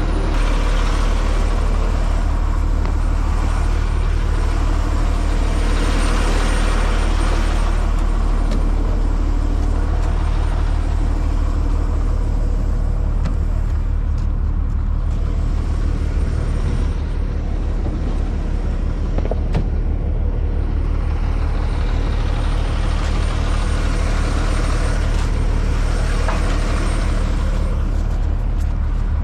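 Heavy diesel truck engine, most likely the rotator wrecker's, running at a steady idle with a low rumble, while a rushing hiss swells around six seconds in and again near the end.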